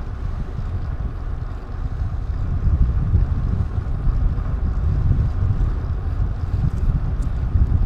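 Wind rushing over an action camera's microphone while riding: a steady, loud rush of noise, heaviest in the low end, with no clear engine tone.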